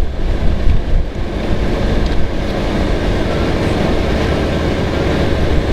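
Nissan 300ZX under way: a steady rumble of engine, tyres and wind.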